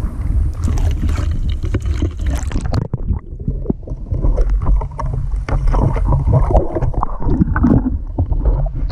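Loud low rumble of wind buffeting the microphone, with irregular rustling, crackles and knocks over it.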